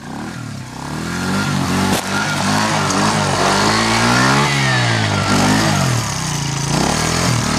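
Dirt bike engine running and revving up and down repeatedly, with the pitch climbing to a peak about halfway and dropping back, as the bike is worked out of the mud and water.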